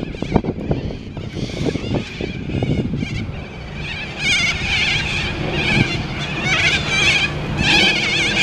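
Birds calling: a run of harsh, wavering calls, repeated about once a second, that starts about four seconds in. Before that, wind and handling noise on the microphone.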